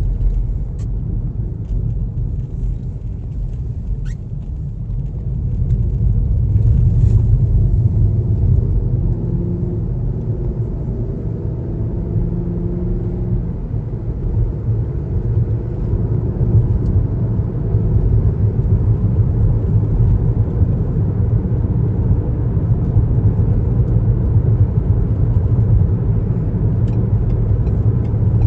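Car driving on the road: a steady low rumble of tyres and engine, growing louder about six seconds in.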